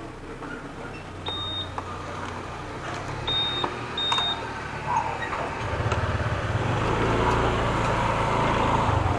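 Three short high electronic beeps, the first a little longer, then a motorcycle engine running steadily and getting louder from about halfway through.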